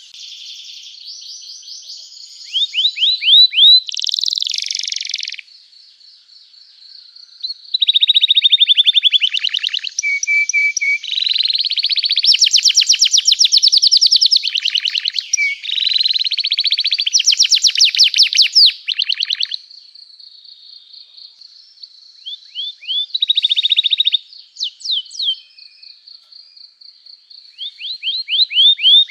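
Domestic canary in full song: rapid trills and fast repeated chirp phrases, coming in loud runs separated by quieter passages.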